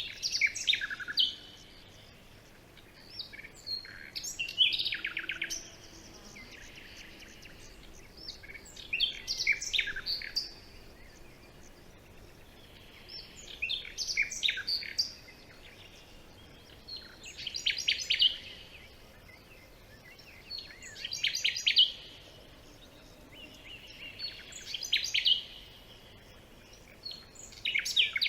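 A songbird singing the same short phrase of quick notes and trills over and over, about eight times, with a gap of two to three seconds between phrases, over a faint steady background hiss.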